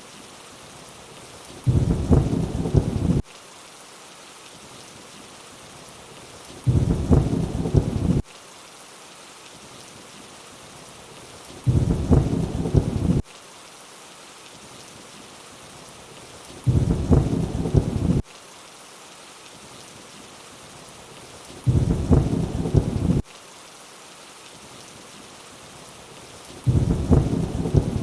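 Steady rainfall with a short low rumble of thunder repeating every five seconds, six times, each lasting about a second and a half and starting and stopping abruptly, as in a looped thunder clip.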